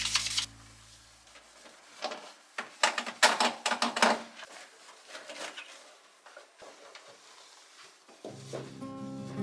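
A run of clicks and knocks from household objects being handled, loudest between about two and four seconds in, with a few fainter taps after. Background music stops at the start and comes back near the end.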